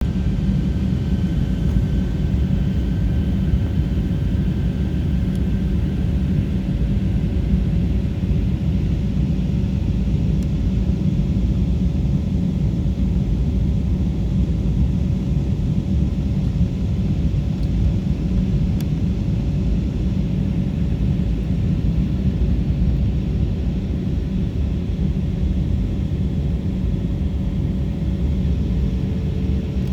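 Airliner in flight: a steady, deep rumble of engines and airflow with a faint steady hum above it.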